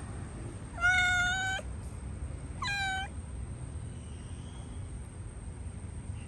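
Domestic cat meowing twice, a cat stuck in a hole: a long, steady, high-pitched meow about a second in, then a shorter meow that drops in pitch. A steady low rumble runs underneath.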